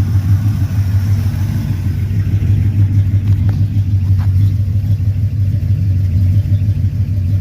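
1985 Oldsmobile Cutlass engine idling through short straight pipes and Thrush mufflers, a steady low exhaust rumble. The exhaust has a couple of leaks up front at the headers.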